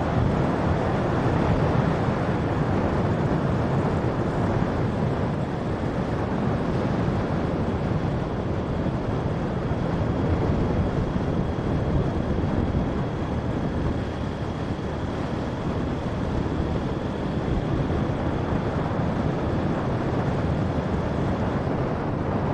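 Motorcycle running at steady highway cruising speed, heard under heavy wind buffeting on the microphone along with road noise. A faint steady high whine runs underneath and stops near the end.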